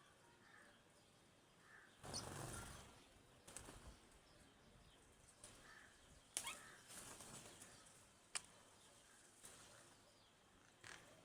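Faint sounds of small birds feeding: a brief flutter of wings about two seconds in, a few sharp clicks from pecking, and soft chirps.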